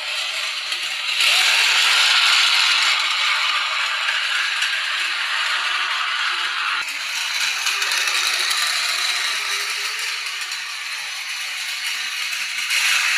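Steady rattling clatter of a miniature model train running on its track, changing abruptly about a second in and again near seven seconds in.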